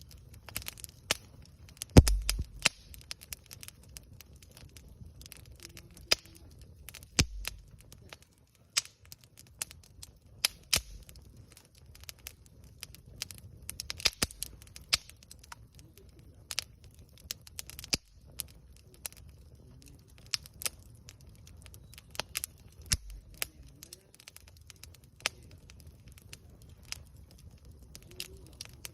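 Wood campfire crackling, with irregular sharp pops and snaps. The loudest pop comes about two seconds in.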